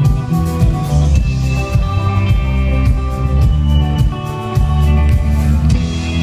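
Rock band playing live: electric guitar, bass and drum kit in an instrumental passage with no singing, loud and steady.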